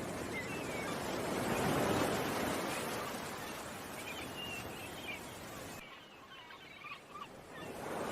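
Ocean waves washing on the shore, swelling about two seconds in and ebbing away, with a dip near the end before the next wave builds. Small birds chirp over the surf.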